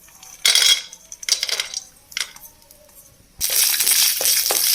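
Cashew nuts going into hot ghee in a kadai: a few short clinks and clatters, then about three and a half seconds in a loud, steady sizzle as the nuts fry.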